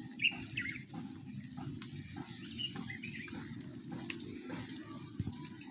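A small bird chirping in short, high notes over a low, steady patter of outdoor ambience. The chirps come more quickly, several a second, in the second half.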